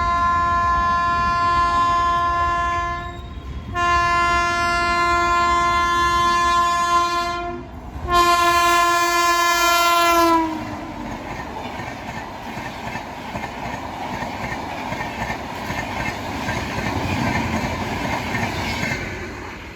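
Indian Railways locomotive horn sounding three long blasts, the last one dropping in pitch as the locomotive passes. It is followed by the steady rumble and clickety-clack of the train rushing past at full line speed.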